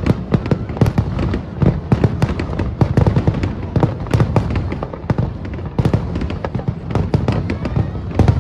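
Aerial fireworks going off in a rapid barrage: several sharp bangs a second, each followed by crackle, with no pause.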